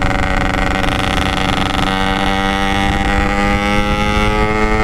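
Yamaha RX King two-stroke motorcycle engine running at a steady cruising throttle while riding, its note creeping slightly higher in the second half, with wind rumbling on the microphone.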